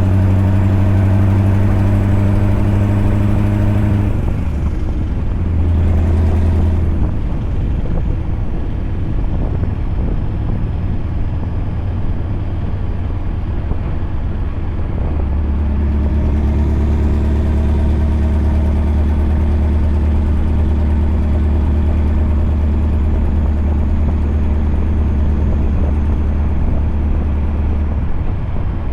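Scania V8 truck engine running at a steady speed while driving. Its steady drone changes about four seconds in and settles into a new steady note about midway.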